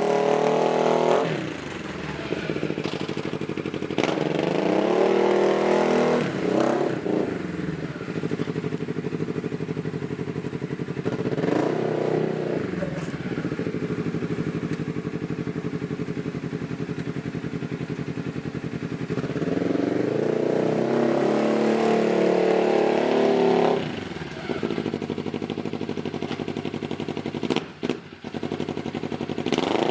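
2012 Polaris RZR XP 900's parallel-twin engine through a dual Looney Tuned aftermarket exhaust, idling and revved up several times, with the pitch rising and falling on each blip and one longer held rev.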